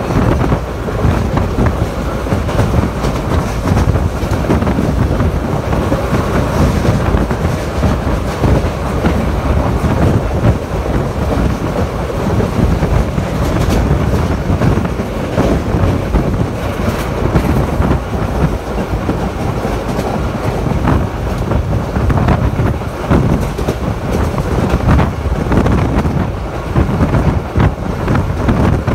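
Train running along the track, heard from on board: a steady rumble of wheels on rail with faint clicking and wind rushing past.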